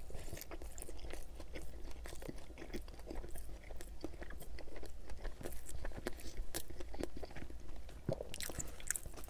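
Close-miked eating of a pizza slice: a bite into the slice, then steady chewing with frequent crisp crackles and wet mouth clicks.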